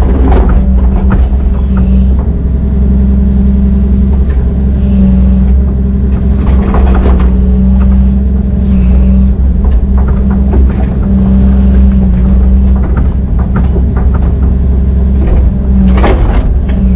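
Heavy diesel engine running steadily under load, with a few sharp metallic knocks, the strongest near the end.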